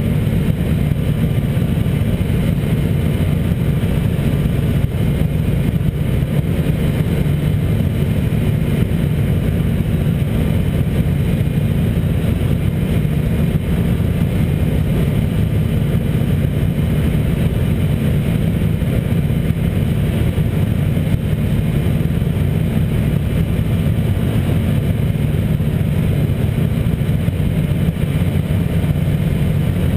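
Race car engine idling steadily, an even low hum with no revs or changes.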